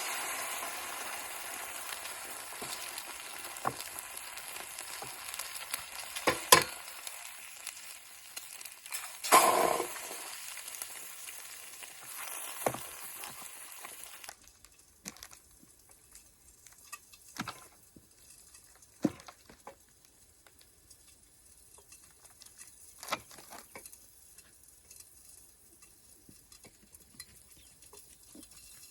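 Food sizzling and frying in a pan, with two loud knocks of cookware in the middle of it. About halfway through the sizzling cuts off suddenly, leaving scattered light clicks and taps of handling.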